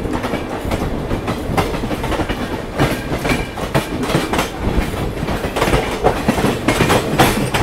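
Two passenger trains running side by side on parallel tracks, their wheels clattering irregularly over rail joints and points, heard from the open doorway of one of the coaches.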